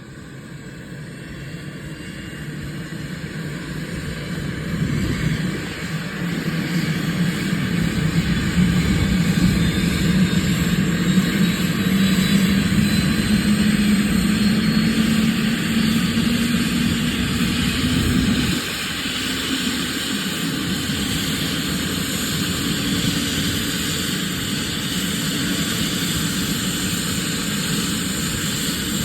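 Medical helicopter's turbine engine and rotor spooling up. The sound grows louder over the first several seconds while a higher whine slowly rises in pitch. About two-thirds of the way through, the sound drops suddenly to a steadier, lower run.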